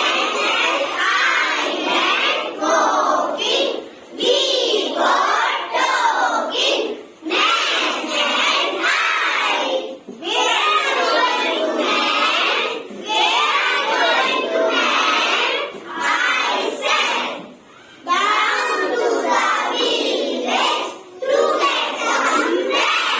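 A group of young children reciting a poem aloud in unison, line by line, with brief pauses between the lines.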